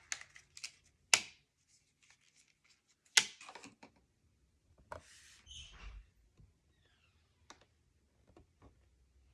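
Hands working paper and adhesive tape on a craft album page: scattered taps and rustles, with two sharp clicks about one and three seconds in and a short rustle around the middle.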